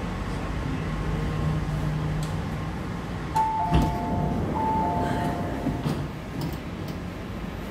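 MTR C-Train electric multiple unit running and slowing to a stop at a station, its low motor hum fading out. About halfway through, a two-note falling chime sounds twice in a row.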